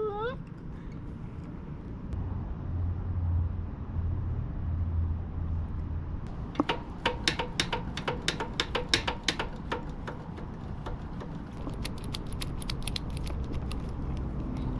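Rapid, irregular metallic clicks and taps of hand work on a pit bike's rear hydraulic brake, starting about six seconds in, over a low hum.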